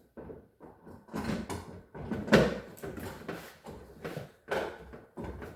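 Refrigerator parts being handled and fitted into the cabinet: a string of irregular clunks, knocks and scrapes.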